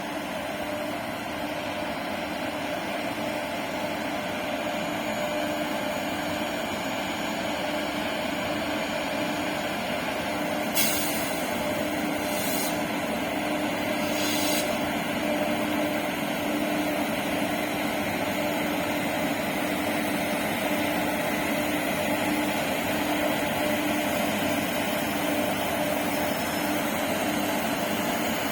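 Twin WAG-7 electric freight locomotives running under power: a steady hum with a held tone that grows slightly louder. About eleven seconds in come three short bursts of hiss, roughly a second and a half apart.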